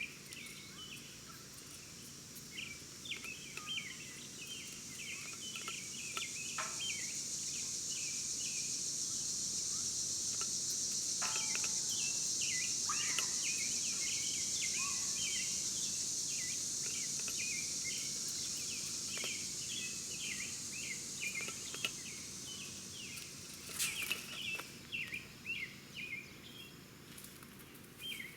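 Small birds chirping in quick, repeated short notes, with a high, even hiss that swells up through the middle and fades again.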